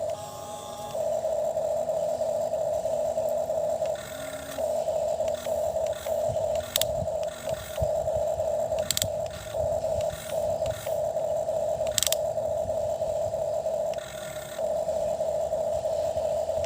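Small electric motor of a toy excavator whining steadily at one pitch, stopping briefly three times as it moves, with a few sharp clicks from its gears or the digging.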